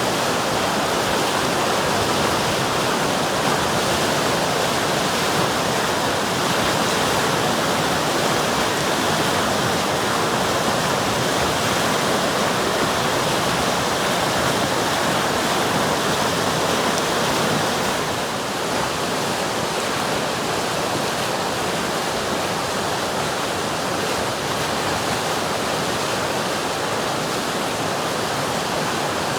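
River water flowing, a steady rushing that drops slightly in level about two-thirds of the way through.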